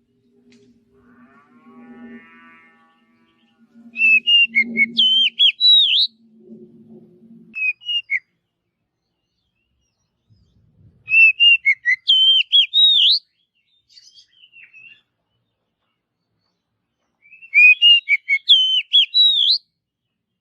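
Oriental magpie-robin (kacer) singing: three loud phrases of quick, rising and falling whistled notes several seconds apart, with a short phrase between the first two.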